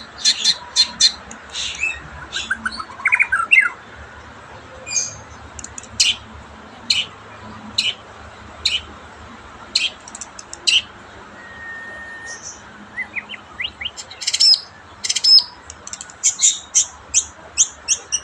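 White-rumped shama (murai batu) calling: short, sharp chirps about once a second, with quicker runs of chirps near the start and near the end and a few short rising whistles in between. The keeper presents this as the bird slowly returning to form after a spell of trouble.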